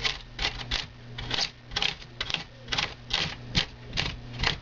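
A hand tool scraping and carving extruded foam board in quick repeated strokes, about three a second, shaping model railroad terrain.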